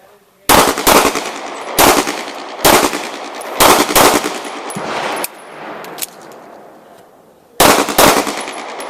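Pistol shots fired in quick pairs, each shot loud and sharp with a short ringing tail. Several pairs come in the first five seconds, then a pause of about two seconds before firing resumes near the end.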